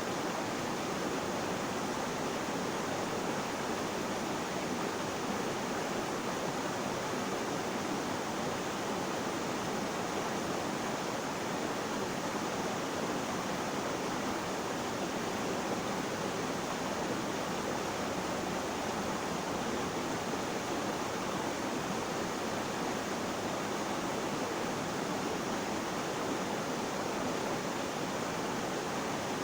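Flowing water rushing steadily, an even hiss with no distinct splashes or changes.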